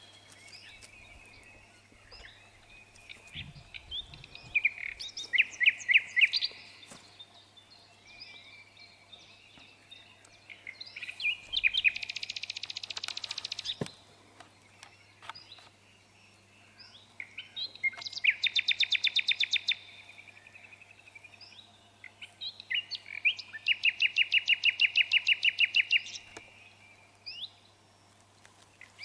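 A songbird singing: four loud trills of quick, evenly spaced notes, each lasting one to three seconds, coming about every six seconds, with softer chirps in between.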